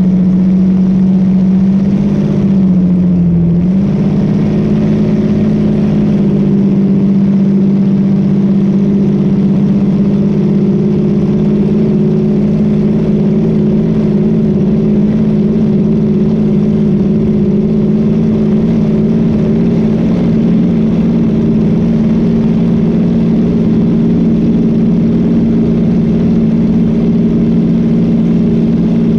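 Boat engine running steadily at speed, a loud even drone whose pitch dips briefly about three seconds in and then holds steady.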